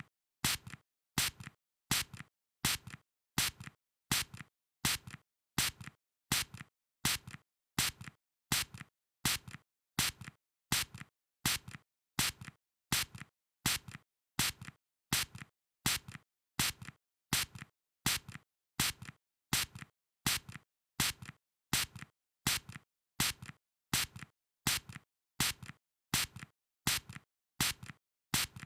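Short spray bursts from a spray nozzle, repeated evenly about two a second, a louder puff and a softer one alternating.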